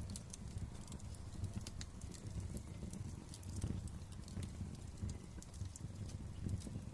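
Wood fire crackling in a fireplace: many sharp, irregular pops and snaps over a low, steady rumble of the flames.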